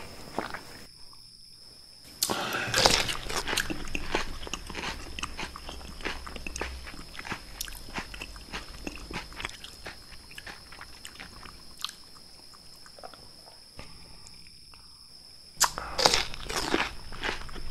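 Raw red bell pepper bitten with a loud, crisp crunch about two seconds in, then chewed with many wet crackling crunches that slowly die down, and another loud crunching bite near the end.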